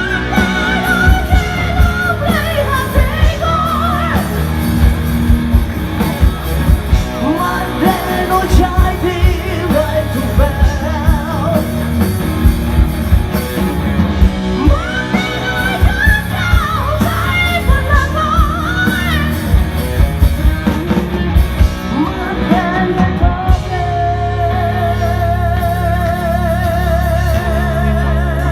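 A rock band playing live in a large hall: drums keep a steady beat under electric guitar and high, bending wordless vocal lines. Near the end a long, wavering note is held.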